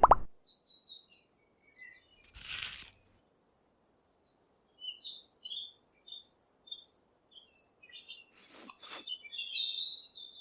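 Small birds chirping: many short, high chirps scattered throughout. There is a brief hiss about two and a half seconds in and two sharp clicks near the end.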